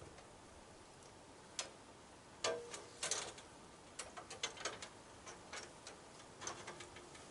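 A string of irregular sharp clicks and knocks, a few single ones and then quick clusters, over a faint steady hiss.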